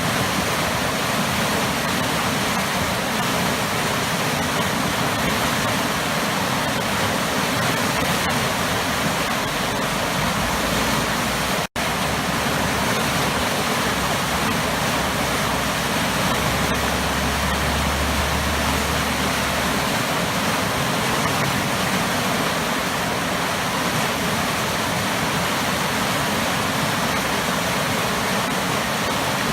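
Waterfall with heavy churning water, a steady, loud rushing. It cuts out for an instant about twelve seconds in, and a low rumble swells briefly in the second half.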